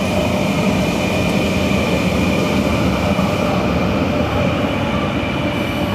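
A train running nearby: a steady, loud rumble with steady high whining tones on top.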